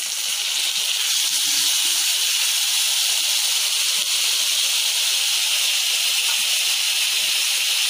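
Wet spice paste of cumin, coriander and turmeric ground with water sizzling steadily in hot oil in a kadai; the water in the paste makes the oil hiss, swelling over the first second or so and then holding.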